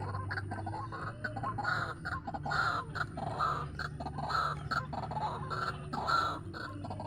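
White-breasted waterhen calling: a rapid run of harsh, croaking calls repeated several times a second, over a steady low hum.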